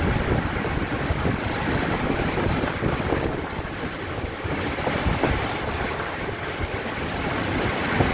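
Passenger train coach rolling over the rails, with one steady high-pitched wheel squeal as it runs through a curve; the squeal fades out about six and a half seconds in, and a couple of rail-joint knocks sound near the middle and the end.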